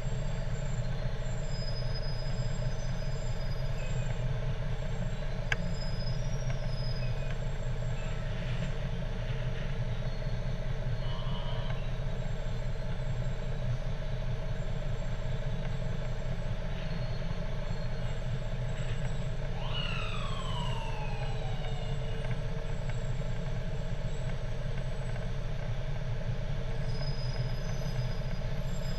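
Steady low hum of fire truck engines running, with one siren tone sweeping downward about two-thirds of the way in.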